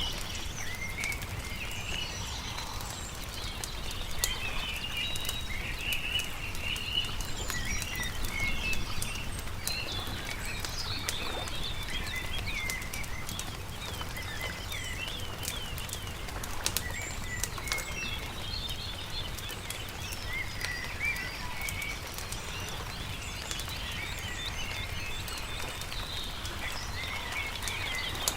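Songbirds chirping and singing in quick, overlapping phrases throughout, over the sharp scattered crackles of a burning wood campfire and a steady low rumble.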